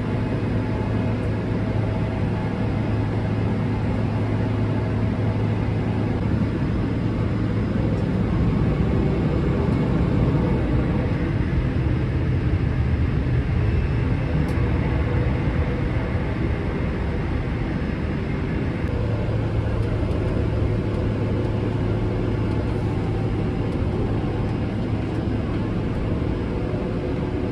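Cabin noise of a Boeing 777-300ER on its takeoff run: the GE90 jet engines at high power over a steady low rumble, a little louder about halfway through.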